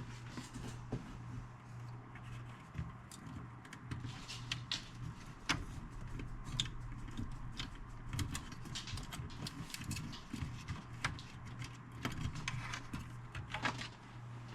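Scattered light clicks and rattles of hands handling cables and parts of an old stereo system, over a steady low hum.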